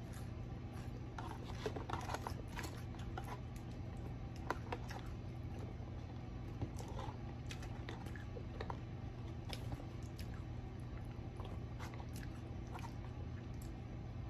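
Close-up chewing and crunching of fried food, with scattered light clicks and taps of a fork in the takeout boxes, over a low steady hum.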